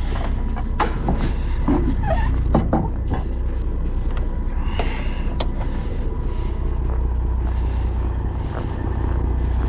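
Semi truck's diesel engine idling with a steady low rumble, with scattered sharp clicks and knocks over it.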